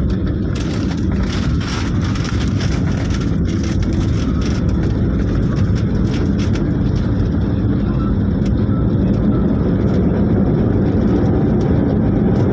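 Steady low rumble of an airliner heard from inside the passenger cabin during landing, the noise of the jet's engines and airframe growing slightly louder over a few seconds.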